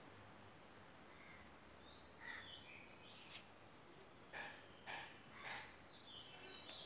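Quiet outdoor ambience with faint bird chirps, short falling calls heard several times. About halfway through come a sharp click and three or four soft short scuffs.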